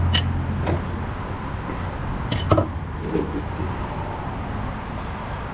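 A few metal clinks and knocks from working on a hydraulic pump fitting, the loudest about two and a half seconds in with a short ring, over a steady low hum.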